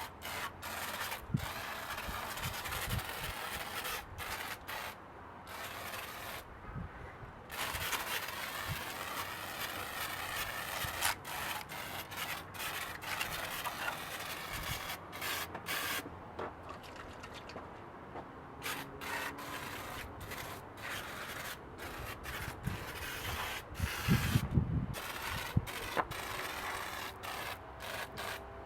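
Black Magic Engine Shine being sprayed over an engine bay: a hissing spray in repeated bursts broken by many short pauses, with a few low knocks a little before the end.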